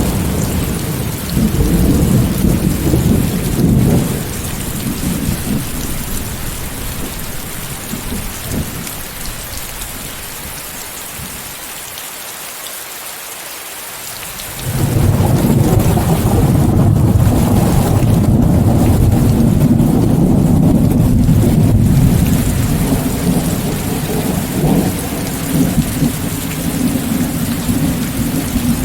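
Steady heavy rain with rolling thunder. One rumble fades away over the first half, then a new deep rumble breaks in suddenly about halfway and rolls on for several seconds before easing off.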